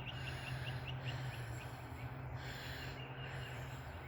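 A bird calling in a rapid series of short high notes, about six a second, fading out about two seconds in, over a steady low hum.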